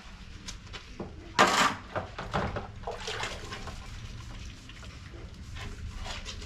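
Water splashing: one loud splash about one and a half seconds in, then a few smaller splashes.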